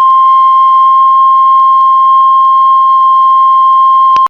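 Heart monitor flatline: one long, steady, high beep lasting about four seconds, starting and cutting off abruptly. The unbroken tone is the monitor's signal that no heartbeat is being detected.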